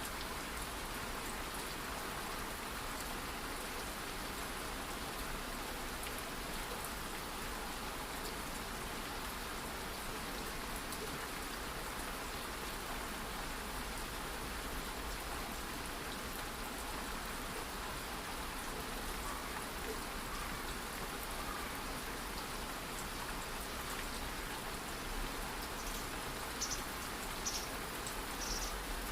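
Steady light rain falling, with a few brief, sharper drip sounds near the end.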